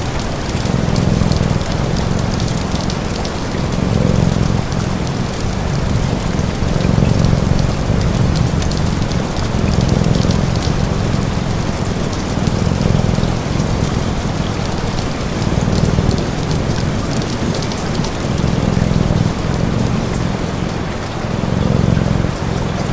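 Steady rain mixed with a crackling fire and a cat purring; the low purr swells and fades about every three seconds.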